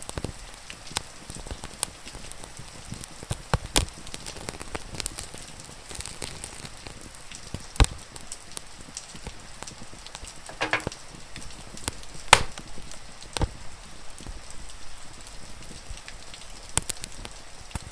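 Wood fire crackling, with irregular sharp pops, a few of them loud, over the steady hiss of rain.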